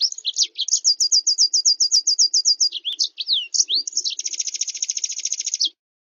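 Recorded songbird song: fast runs of repeated high slurred whistles, about ten a second, with a few swooping notes, then a dense buzzy trill that stops abruptly near the end. It is a master track for tutoring cage birds such as white-eyes.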